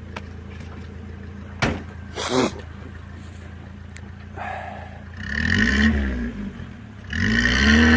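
Lada Niva engine idling, with a single knock about a second and a half in, then revved twice in bursts of a second or so, each rising and falling in pitch, as the driver tries to reverse the car out of a snowy rut.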